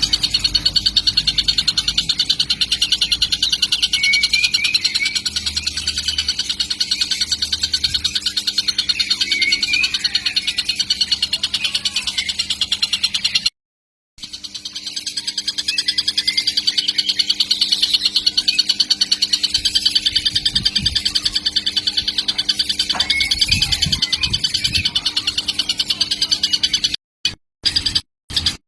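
Young tengkek (kingfisher) giving a fast, continuous chattering call, with one short break about halfway through.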